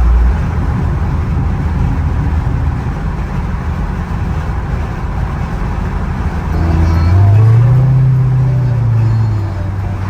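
Car engine running with a loud, low rumble. A little past halfway the engine note rises and then falls back over about three seconds, as the car is revved or pulls away under throttle.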